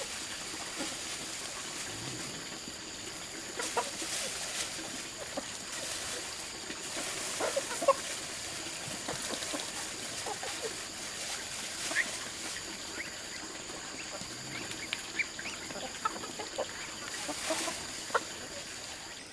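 Chickens clucking with scattered short calls, over a steady high-pitched drone, with a few sharp knocks, the loudest about eight seconds in.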